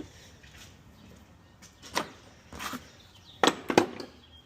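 A few sharp clicks and knocks of hand tools and parts being handled during car repair, spaced out, with the loudest pair about three and a half seconds in.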